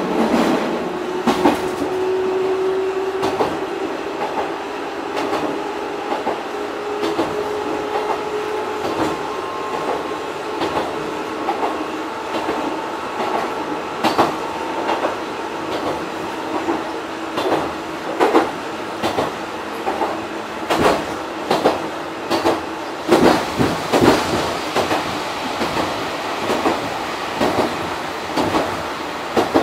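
Fukui Railway 200-series electric railcar running along the line: a steady whine that slowly sinks in pitch, under the clacks of the wheels over rail joints. The clacks come in clusters, busiest about two-thirds of the way through.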